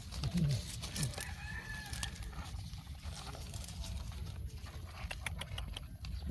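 A faint bird call about a second long, arching up and down, over scattered clicks and steady low handling noise.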